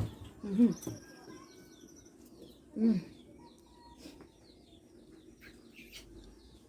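Birds chirping and twittering in the background, with two short voiced murmurs from a woman about half a second and three seconds in.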